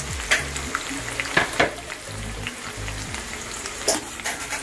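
Pieces of cooked egg frying in hot oil in a pan, sizzling steadily while being stirred, with a few sharp clicks of the spatula against the pan.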